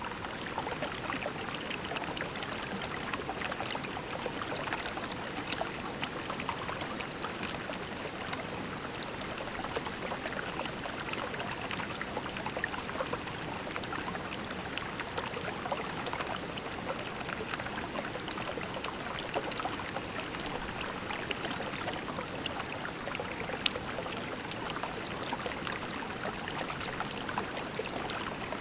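Shallow creek babbling and trickling over pebbles, a steady wash of running water with small splashes and a sharp plink about 24 seconds in.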